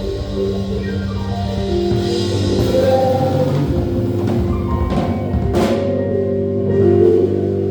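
Live band music: held guitar chords and notes over drums, with a few sharp drum or cymbal hits.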